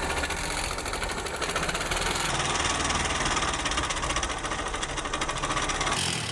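Honda SP 125 BS6 single-cylinder engine running with a fast, heavy mechanical clatter, the noise of an engine run without oil: its rocker-arm bearings are loose or seized, the camshaft is worn and the piston and rings are ruined. The sound cuts off near the end.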